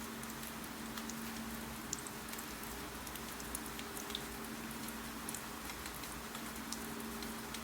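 Steady rain falling, with scattered light ticks and taps of drops and a faint steady low hum underneath.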